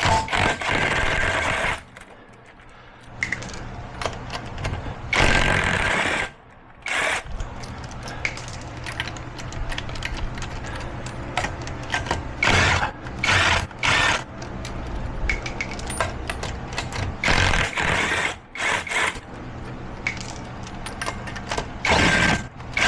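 Irregular bursts of metal clanking and scraping as a car wheel is worked loose and taken off with hand tools, over a steady low hum.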